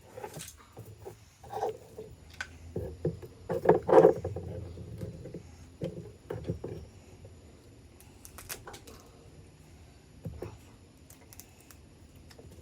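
Close-miked eating sounds: irregular chewing and smacking over a mud crab meal, loudest about four seconds in, with a few sharp clicks later on.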